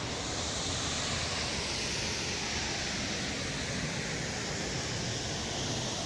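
Kivach waterfall on the Suna River: the steady rush of falling water, an even noise that holds at one level.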